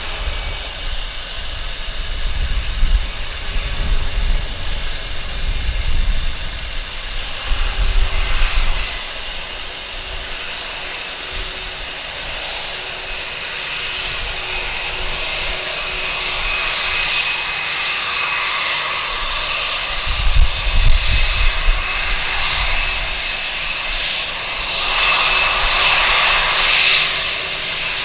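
Jet engines of a cargo airliner running with a steady high whine over a rushing noise, growing louder through the second half. Low rumbling gusts come and go underneath.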